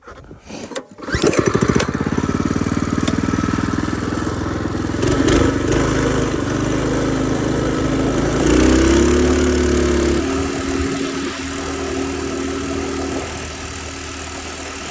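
Mini bike's Predator 212 single-cylinder four-stroke engine starting about a second in, then running, rising in pitch and loudness around the middle and settling to a lower, steadier run near the end.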